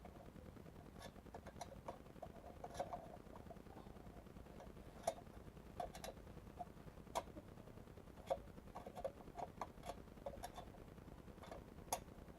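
Irregular small clicks and knocks, a dozen or so spread unevenly, with the engine not running: hands working at the jammed recoil pull-start of a Honda GX110-engined plate compactor.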